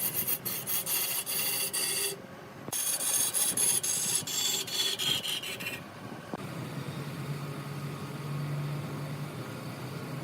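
A tool scraping against wood spinning on a lathe, a gritty rasping with rapid fine ticks, in two stretches with a brief break about two seconds in. It stops about six seconds in, leaving the lathe's motor humming steadily.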